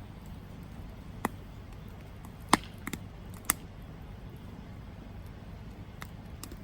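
Campfire burning with a low steady rumble and a handful of sharp wood pops and crackles, the loudest about two and a half seconds in.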